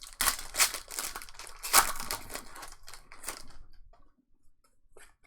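Trading card pack wrapper being torn open and crinkled: a dense crackling that dies away after about three and a half seconds, leaving a few faint ticks.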